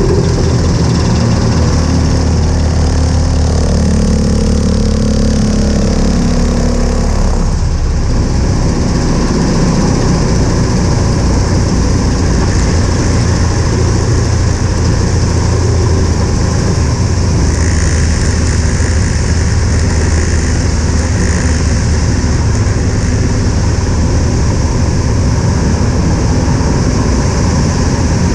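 Loud, steady rumble of the Thunder Mustang race plane Blue Thunder II, with a low hum whose pitched lines shift about seven seconds in.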